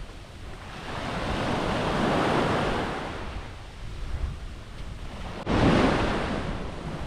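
Small waves washing onto the beach, swelling and fading, with wind rumbling on the microphone. A louder wash starts abruptly about five and a half seconds in.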